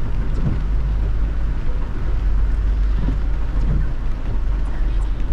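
Steady low rumble of a car driving on a wet road in heavy rain, with the hiss of tyres and rain over it.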